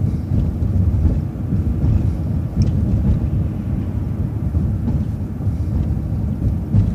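City transit bus driving, a steady low rumble of engine and road noise.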